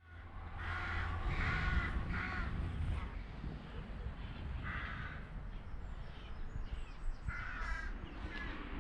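A crow cawing: three harsh caws in quick succession, then two more spaced caws. Wind rumbles steadily on the microphone underneath.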